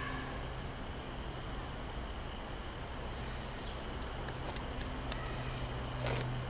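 Outdoor ambience of small birds chirping: short, high chirps repeating every second or so over a steady low hum, with a few faint clicks in the second half.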